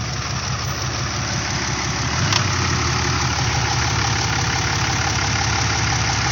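Pickup truck engine idling steadily close by, with a broad hiss over it and one sharp click about two seconds in.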